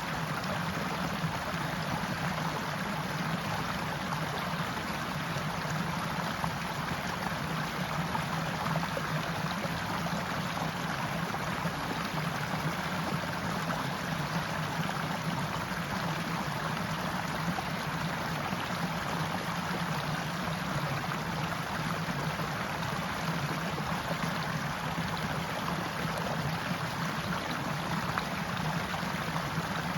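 Stream water running steadily in a continuous, even rush.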